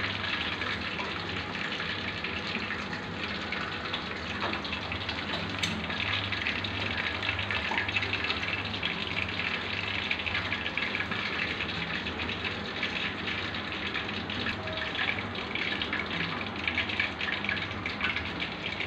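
Marinated chicken pieces deep-frying in hot oil in a steel pot: a steady sizzle full of fine crackles.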